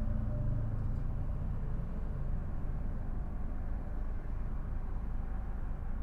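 Car driving: a steady low rumble of engine and road noise, with a faint engine hum in the first second that fades.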